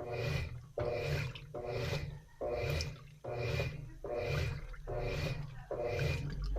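Washing machine agitating its load through the wash, the motor driving one stroke after another about every 0.8 seconds, with water sloshing in the tub.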